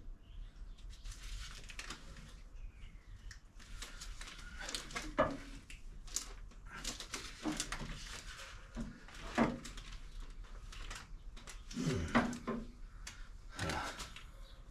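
Irregular knocks, clicks and rustling from hands handling tools and parts, with a few louder knocks scattered through.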